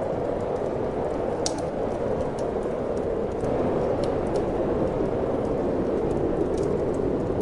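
Steady wind blowing over a wood fire crackling in a fireplace, with scattered sharp pops. The wind swells slightly about halfway through.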